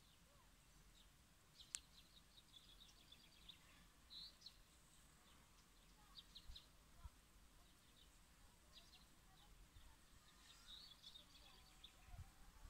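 Faint bird chirps, short high calls in scattered clusters, over quiet outdoor ambience, with a single sharp click about two seconds in.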